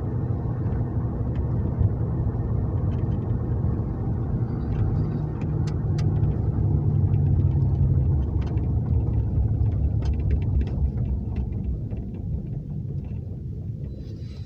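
Police car driving, heard from inside the cabin: a steady low engine and road rumble that swells about halfway through, then eases off toward the end, with a few faint clicks.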